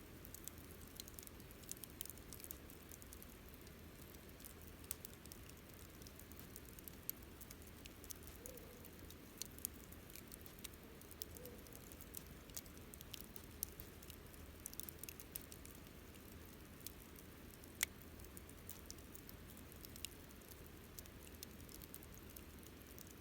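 Wood campfire crackling faintly, with irregular small pops and one sharper pop about eighteen seconds in.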